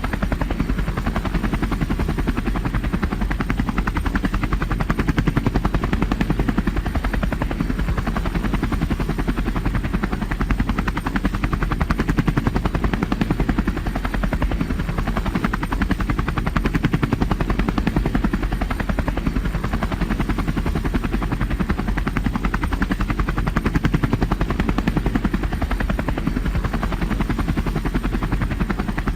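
Tour helicopter in flight, heard from on board: a steady, rapid chop of the rotor blades over the engine's constant drone.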